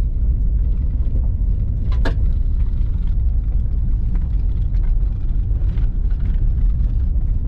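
Car interior on a rough dirt trail: a steady low rumble of engine and tyres, with small knocks and rattles and one sharp click about two seconds in.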